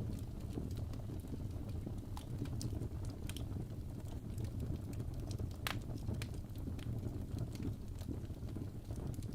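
Wood fire burning in a fireplace: a steady low rumble of flames with irregular sharp crackles and pops, the loudest pop a little before six seconds in.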